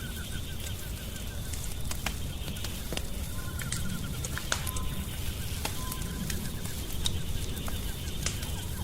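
Wood fire crackling, with scattered sharp pops over a low, steady rumble. A rapid chirping trill repeats in short bursts in the background.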